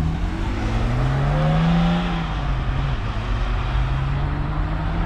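Porsche 911 engines running as the cars pull out slowly. One engine note rises gently for about the first two seconds, then drops back to a steady low note.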